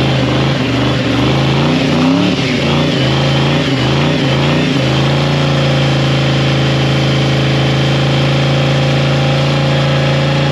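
Truck engine revving hard during a burnout: the revs rise and fall for the first few seconds, then are held steady and high.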